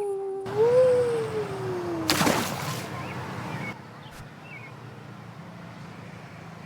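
A long drawn-out cry that rises briefly, then glides slowly down in pitch. It is cut off about two seconds in by a short splash-like burst of noise, as of a jump off a diving board into a pool, which fades into a hiss.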